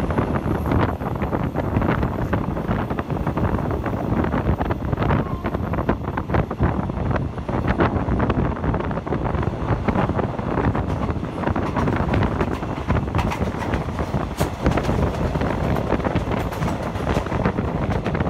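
Passenger train running along the line, heard from aboard: a steady rumble of wheels on the rails with many small clicks, and wind buffeting the microphone.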